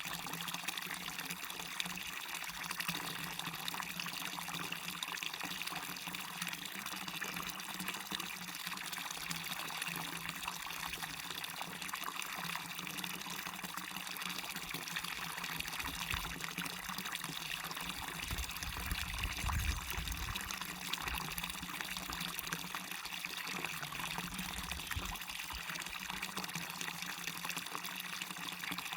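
Waterfall splashing and rushing steadily into a stream. A low rumble swells briefly about two-thirds of the way through.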